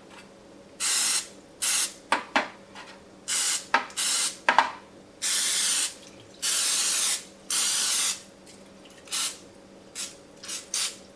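Aerosol can of nonstick cooking spray hissing in about a dozen separate squirts. Most are short, with three longer sprays of about a second in the middle, and a few small clicks fall between them.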